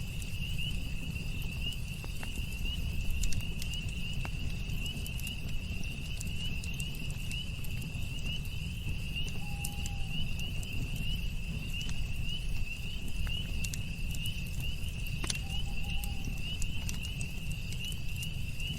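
Campfire crackling with scattered sharp pops over a low rumble, under a steady, fast-pulsing trill of night insects. A short faint call sounds twice, about ten and fifteen seconds in.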